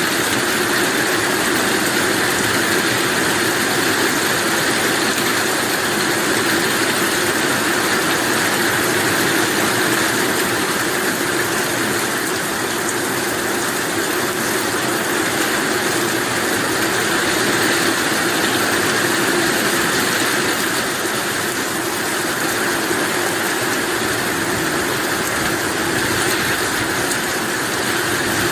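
Heavy rain falling steadily, an even hiss with no sudden breaks.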